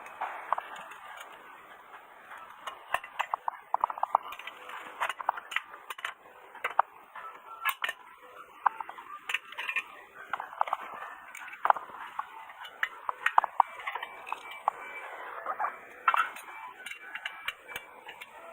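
Irregular light metallic clinks and taps, several a second, with no engine running.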